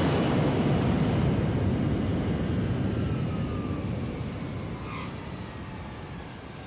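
Jet airliner's engines roaring as it passes, the sound fading away steadily over several seconds.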